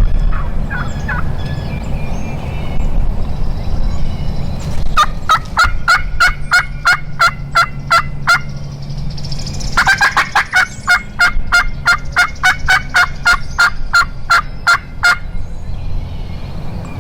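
Turkey yelping: two long series of evenly spaced, sharp notes at about four a second, the second series louder and longer, over a steady low rumble.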